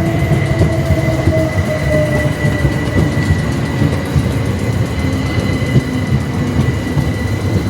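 Electric train running close by: a steady low rumble of wheels on track, with a motor whine that slowly falls in pitch over the first few seconds and a steady high tone throughout.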